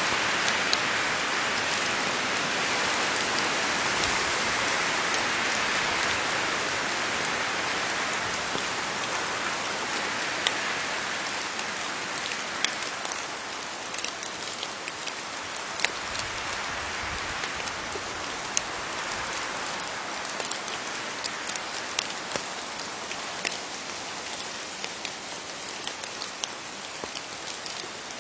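Steady rain falling on leaves: an even hiss with many separate drop ticks scattered through it, easing slightly in level over the stretch.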